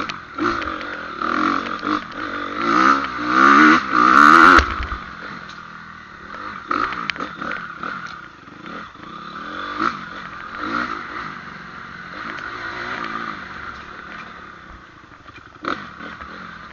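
Dirt bike engine revving up and down as it is ridden. It is loudest in the first four or five seconds, then runs quieter.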